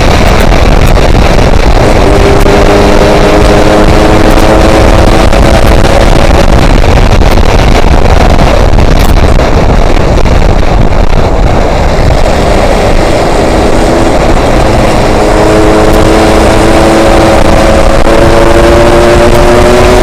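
Yamaha RX-King 135 cc two-stroke single-cylinder motorcycle being ridden, with heavy wind rushing over the microphone. The engine's note stands out above the wind from about two seconds in, fades, then returns past the middle and climbs slowly near the end.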